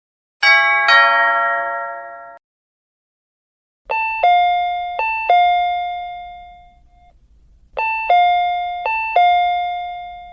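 Doorbell chimes: first a short two-stroke chime that cuts off after about two seconds, then a four-note ding-dong ding-dong chime rung twice, each time ringing out.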